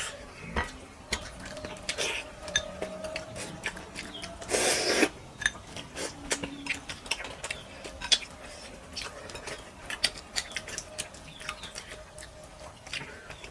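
Close-up eating sounds: many small mouth clicks and smacks while chewing fish curry and rice, with a few sharper clicks against a plate. There is a short rushing sound about four and a half seconds in.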